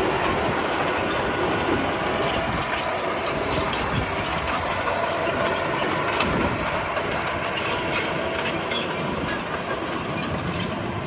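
Komatsu D31P crawler bulldozer with its diesel engine running steadily under a continual clatter of clicks and rattles from the steel tracks.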